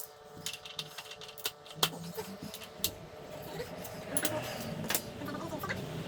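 Scattered light metallic clicks and clinks of small metal objects being handled, with a few sharper knocks about one and a half, two and three seconds in.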